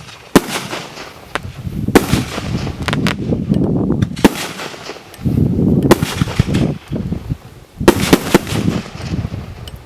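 Ba Bum 'Assorti SU 46 B' consumer firework battery firing: sharp bangs at irregular intervals, with a quick cluster of several about eight seconds in, over a low rumbling noise between shots.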